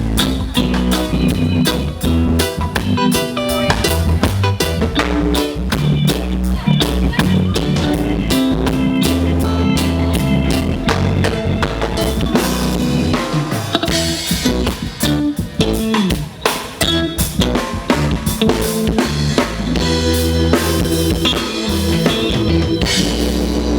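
Live reggae band playing an instrumental passage, with a drum kit keeping a busy beat over a heavy bass line and no singing.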